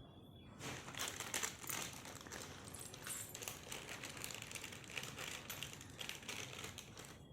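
Plastic snack packet crinkling and rustling as it is handled, a dense crackle of quick clicks that starts about half a second in.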